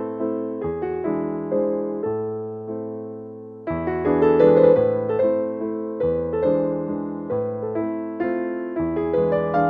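Background piano music: a gentle melody of struck notes over low bass notes, fading briefly about three seconds in before picking up again.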